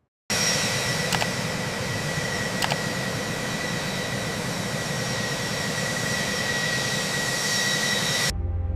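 Jet engine running steadily: a dense roar with a high, steady whine, starting suddenly and cutting off abruptly near the end.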